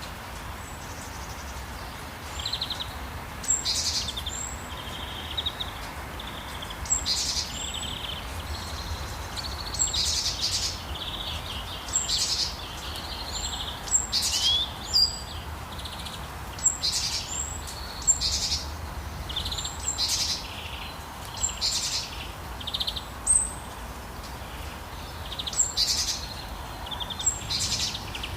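Wild birds chirping and calling in short, repeated phrases, a call every second or two, over a steady hiss of rain.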